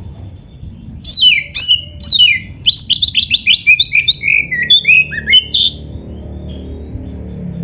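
Oriental magpie-robin (kacer) singing one rapid, varied phrase of sharp whistles and chattering notes, starting about a second in and stopping near the two-thirds mark. A low steady rumble runs underneath.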